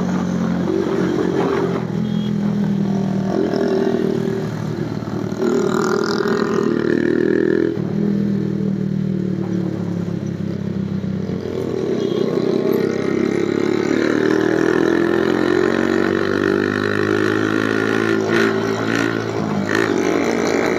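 Infinity 150cc motorcycle engine running on the move. Its pitch steps up and drops back several times as the rider accelerates and shifts gears, then climbs steadily through the second half.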